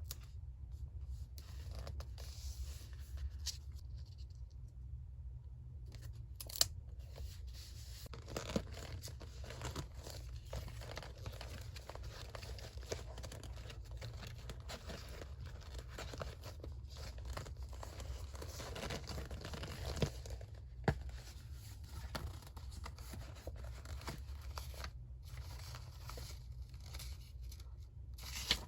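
Paper being handled for a collage: continuous rustling and scraping of paper with occasional tearing, broken by a few sharp taps, over a low steady hum.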